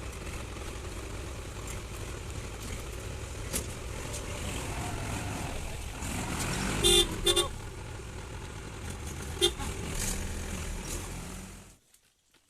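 A vehicle's engine running steadily, with two short horn toots about seven seconds in and another a couple of seconds later. The sound cuts off suddenly near the end.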